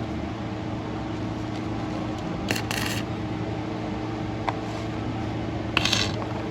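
Metal clinking and scraping a few times, about two and a half seconds in, once near four and a half seconds, and again near the end, over a steady low hum.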